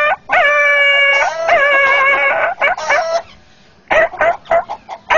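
A man's vocal imitation of a dog yelping in pain after being struck with a stick: a run of long, high, held cries, each starting with a quick upward swoop. A brief pause follows, then short choppy vocal sounds near the end.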